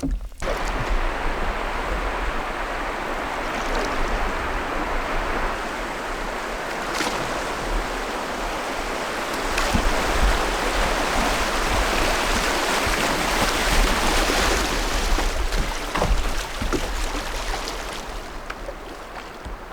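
River water rushing, a steady hiss, with a few light knocks.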